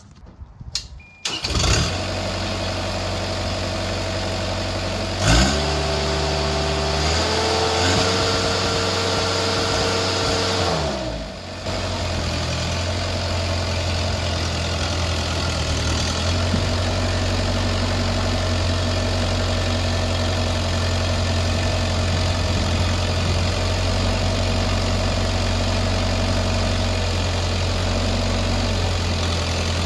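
Kubota KX161-3 excavator's diesel engine starting about a second and a half in and settling to idle. The revs are raised at about five seconds, held until about eleven seconds, then drop back to a steady idle.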